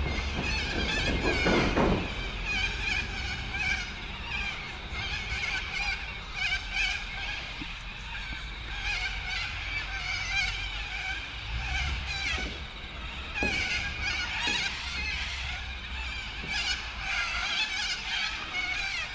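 Insects buzzing with many short, high, chirping calls layered over a steady high drone, and a low rumble of wind on the microphone.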